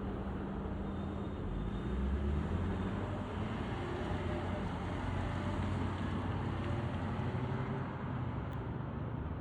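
Heavy fire apparatus diesel engine running, a steady low rumble that grows deeper and stronger about two seconds in as the rig pulls away.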